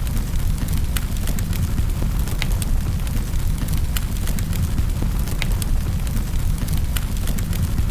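Wood fire crackling in a fireplace: a steady low rumble of burning with irregular sharp pops and snaps, roughly one or two a second.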